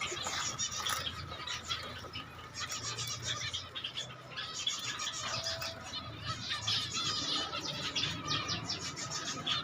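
Zebra finch chirping: many short, quick calls following one another.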